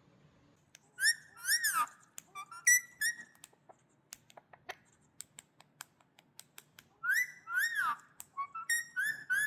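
Indian ringneck parakeet whistling: a quick run of arching, rising-and-falling whistled notes about a second in and again from about seven seconds in, with a string of sharp clicks in between.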